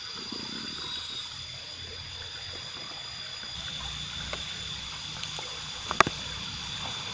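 Water trickling and gurgling in a small natural ditch, with two steady high-pitched tones over it and one sharp click about six seconds in.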